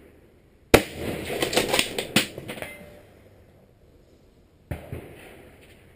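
Rifle fire: a loud, sharp shot a little under a second in, followed by about two seconds of clattery handling noise with several clicks. A second, fainter report comes near the end.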